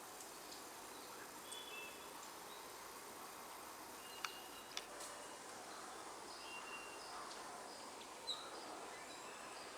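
Scattered short, high bird chirps and calls, over a steady faint background hiss, with two sharp clicks near the middle.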